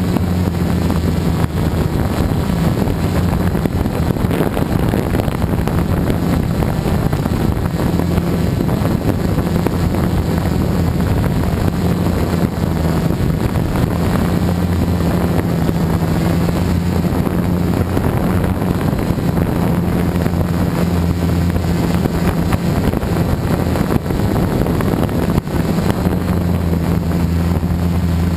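Gaui 330X electric quadcopter's motors and propellers making a steady low hum that shifts a little in pitch, with wind rushing over the on-board GoPro's microphone.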